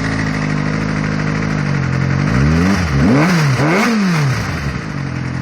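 2007 Kawasaki ZX-6R inline-four idling through a Yoshimura RS-5 slip-on exhaust, then revved three times in quick succession about halfway through, each rev rising and falling before it settles back to idle.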